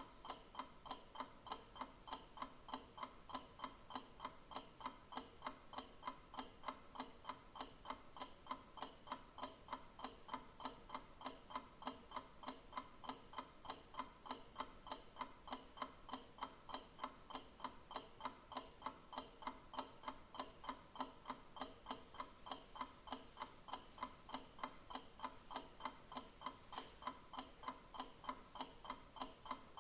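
Clock ticking at a steady, even rate, with regular sharp ticks.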